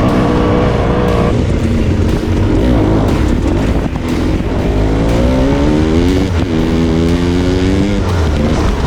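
Dirt bike engine under hard riding. The pitch holds, drops about a second in, then climbs and falls back sharply twice as the throttle opens and shuts, over a low rumble of wind and terrain noise.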